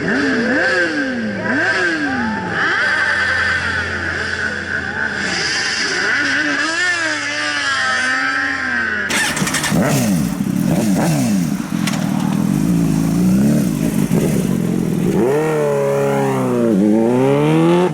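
Motorcycle engines revving, their pitch rising and falling again and again. About nine seconds in the sound cuts to another recording, where an engine revs with repeated up-and-down sweeps in pitch.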